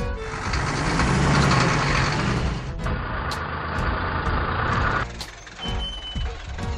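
A cartoon sound effect: a loud, steady rushing noise with a low rumble under it, which changes character about three seconds in and cuts off abruptly about five seconds in. Background music follows.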